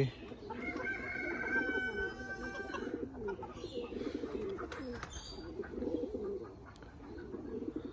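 Polish chicken making low warbling trills throughout, with a long drawn-out higher call in the first three seconds.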